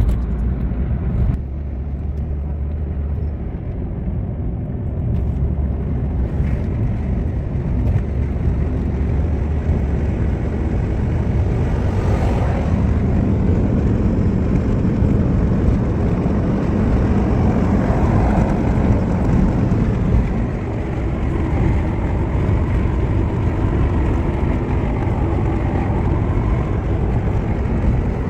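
Steady road and engine noise of a car being driven, a continuous low rumble.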